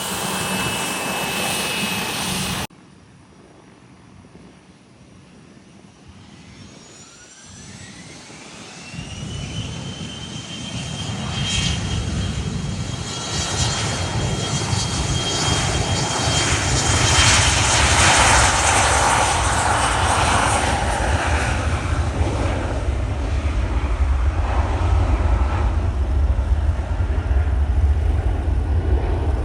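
Private jet's engines: an abrupt cut about three seconds in ends one stretch of engine noise, then the engines spool up with a rising whine that levels off into a steady high whine. A rush of noise and a deep rumble build and stay loud, as when a jet powers up for its takeoff run.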